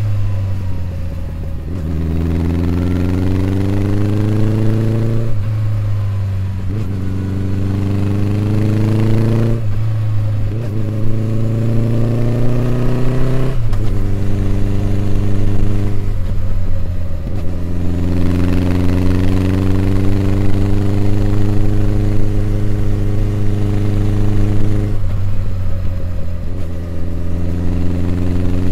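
Honda CB1100EX's air-cooled inline-four engine running under way, rising in pitch as it pulls and dropping back sharply about five times between pulls.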